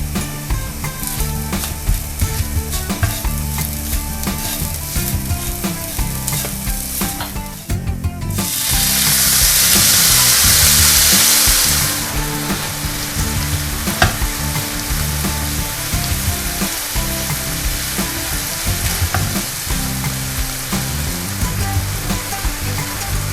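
Food frying and sizzling in hot oil in a pot while being stirred, with small utensil clicks throughout. About eight seconds in, a loud burst of sizzling lasts about four seconds, then settles back to steady frying.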